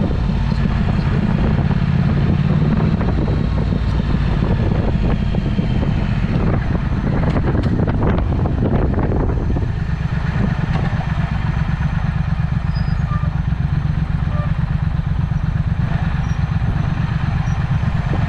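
Triumph Speed Twin's parallel-twin engine running through a Vance & Hines exhaust, a steady low pulsing exhaust note. From about ten seconds in it settles into a more even beat.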